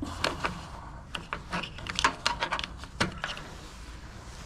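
Irregular sharp clicks and knocks of a screwdriver prying and tapping at the MTD snowblower's parts as a piece is worked loose, the loudest about two and three seconds in.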